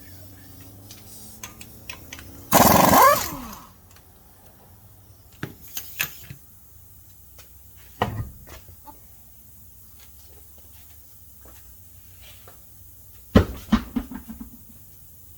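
Impact wrench running in one short burst of under a second on the wheel's lug nuts, followed by scattered metallic clinks and knocks from handling the wheel and tools.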